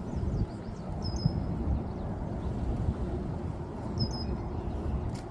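Wind buffeting the microphone with a low rumble, while a small bird gives a short high chirp twice, about a second in and again near four seconds.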